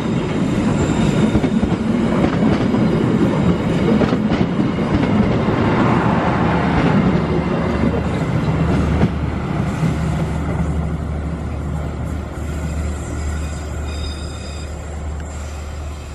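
Passenger train carriages rolling past close by, with a steady clatter of wheels on the rails. The sound fades over the last few seconds as the final carriage draws away into a curve, and a faint high wheel squeal comes in toward the end.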